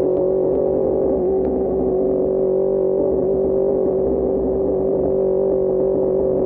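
QJMotor SRK600 motorcycle's inline-four engine, breathing through an Austin Racing GP1R exhaust, running at a steady, unchanging engine speed with a buzzy drone.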